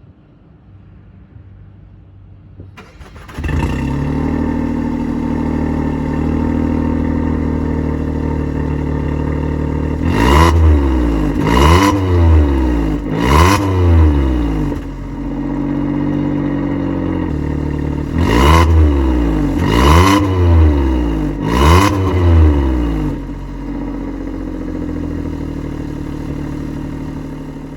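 Suzuki Swift Hybrid's 1.2-litre three-cylinder engine breathing through an ARMS GT-304ZER stainless rear muffler, a loud competition exhaust. It starts about three seconds in and idles, then is blipped in two sets of three quick revs, each falling back to idle.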